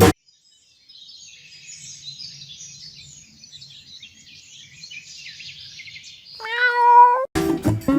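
A domestic cat meows once, a loud pitched call just under a second long near the end, over faint high background noise.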